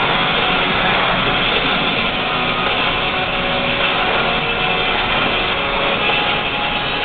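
Steady in-cab drive noise from a GMC 2500HD dump truck's 6-litre V8 and its tyres on the road, with radio music faintly underneath.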